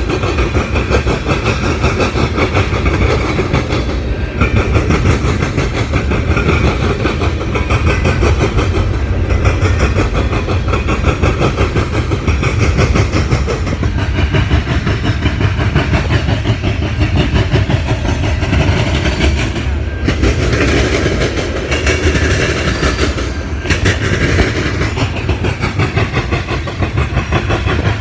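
Freight cars of a mixed freight train rolling past at speed: a steady, loud rumble of steel wheels on rail with rapid clicking.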